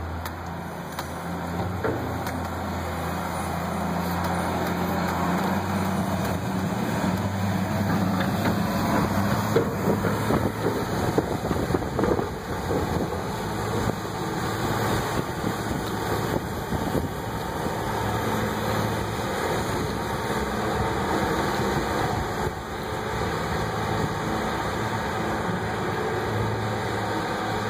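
Diesel engine of a Caterpillar front-end loader running under load, its pitch rising and falling as it works. A run of sharp knocks comes roughly a third of the way through.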